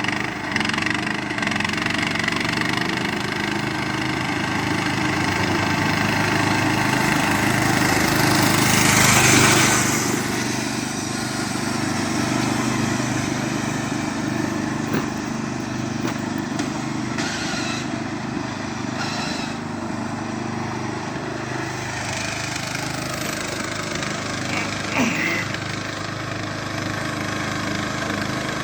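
Riding lawnmower engine running under way. It grows steadily louder to a peak about nine seconds in, drops back sharply, then keeps running at a steady level.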